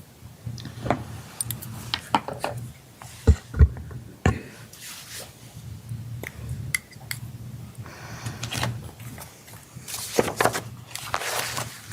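Courtroom room sound of people settling in: scattered knocks, clicks and rustling from chairs, papers and microphone handling, over a low steady hum.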